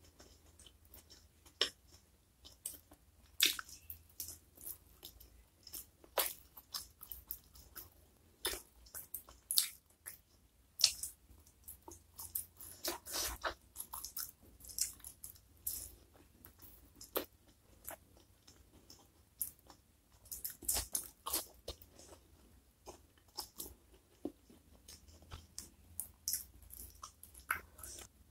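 Close-miked eating: a mouthful of food chewed with irregular wet crunches and sharp clicks, some bites much louder than others.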